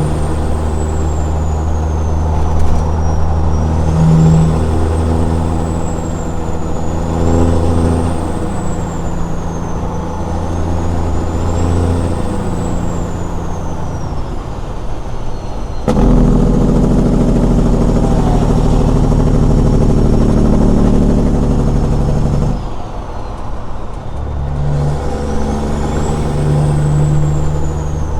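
Straight-piped Caterpillar 6NZ diesel in a Peterbilt 379 truck running on the road. About halfway through, the engine note turns abruptly louder and deeper for about six seconds, then drops back. A faint high whistle rises and falls above it.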